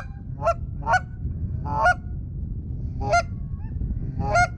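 Loud goose-like honking calls: about six short honks at uneven intervals over a low rumble of background noise.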